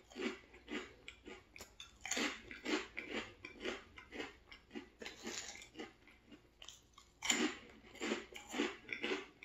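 Close-miked chewing of crunchy veggie chips, crackling bites repeating about twice a second, with louder bursts of crunching about two seconds in, around five seconds and again near seven seconds.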